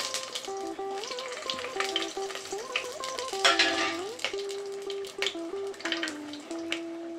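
Food sizzling in hot oil in a pan, with a spoon stirring it in short scraping clicks, and a louder rush of sizzling about three and a half seconds in. A simple background melody plays throughout.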